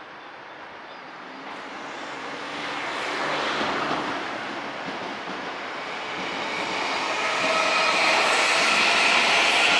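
Odakyu 50000 series VSE Romancecar running past on the line, its running noise building as it approaches, easing briefly about halfway, then rising again to its loudest with a steady whine from about seven seconds in.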